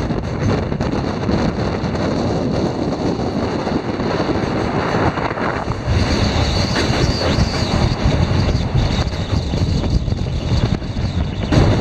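Train running across a steel truss railway bridge: a steady rumble of wheels on rails, with wind buffeting the microphone. The sound shifts about six seconds in.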